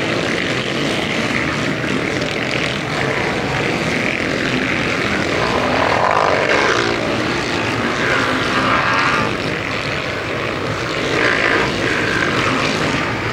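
Motocross sidecar outfits racing, their engines revving up and easing off without a break.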